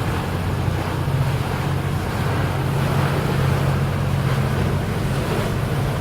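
A boat's engine running with a steady low hum, mixed with rushing water and wind on the microphone.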